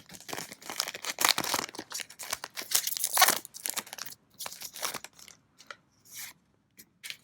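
A trading-card booster pack wrapper being torn open and crinkled, with dense crackling for the first few seconds, then a few scattered rustles.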